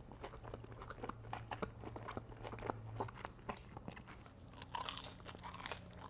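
Close-miked mouth sounds of someone chewing and biting crunchy fried Wingstop food, a quick irregular series of crunches and smacks.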